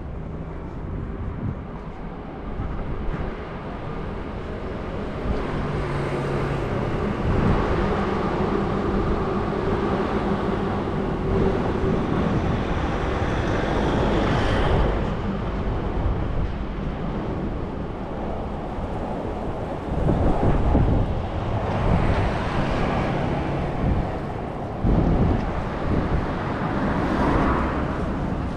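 City street traffic, with vehicles passing one after another in swells that rise and fade, over a steady hum and wind on the microphone.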